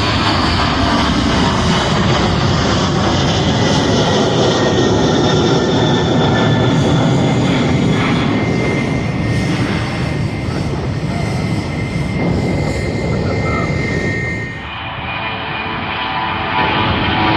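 Jet airliner's engines at takeoff thrust: a loud, steady rumble with a high whine over it, easing briefly about three-quarters of the way through.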